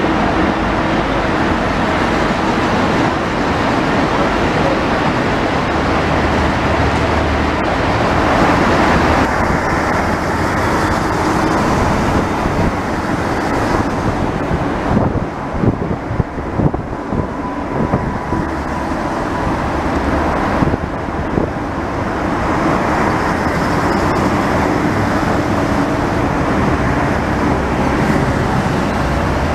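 Israel Railways passenger train pulling out of the station and rolling along the platform: a steady, loud rumble of wheels on rail, with a run of clattering knocks about halfway through.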